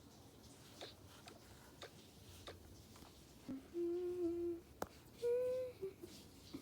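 A girl humming two short notes, the second higher than the first, with a few faint taps scattered through the quiet.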